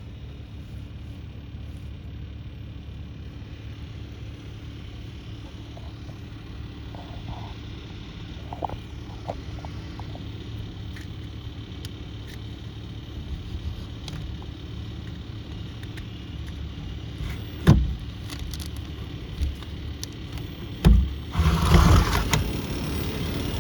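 Sampo FOR-29HS inverter split air conditioner running with a steady low hum, a noise the owner flags as abnormal. A few sharp knocks come late on, followed by a louder rough noisy burst near the end.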